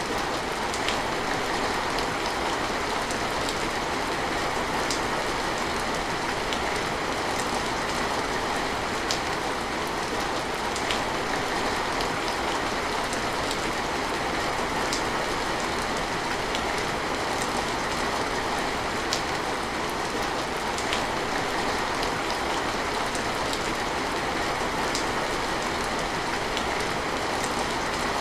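Steady heavy rain, a dense even hiss with scattered sharp drop ticks.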